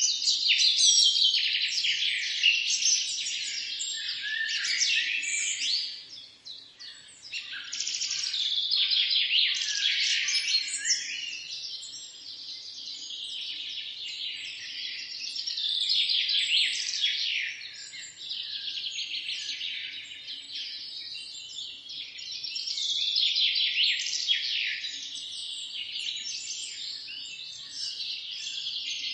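Birds chirping and twittering in a dense, continuous chorus of short high calls, thinning briefly about six seconds in.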